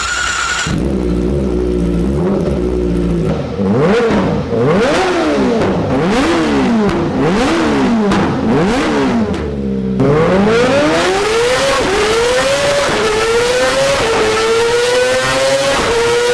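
Kawasaki Ninja ZX-25R's 250cc inline-four through a Yoshimura full-system exhaust: idling briefly, then blipped up and down about half a dozen times. About ten seconds in it changes to accelerating hard through the gears, the pitch climbing and dropping back at each upshift.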